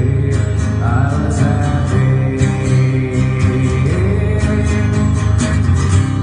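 Acoustic guitar strummed steadily in an instrumental break of a song, with regular strokes over sustained chords.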